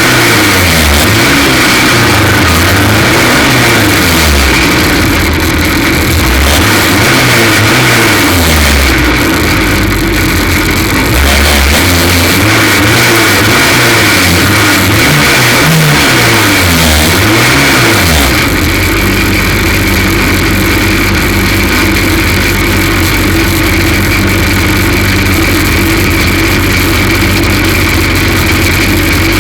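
F2 stock car engine racing, revving up and dropping back every few seconds, then holding a steady lower note for the last ten seconds or so. The car is running with a misfire caused by a cracked spark plug.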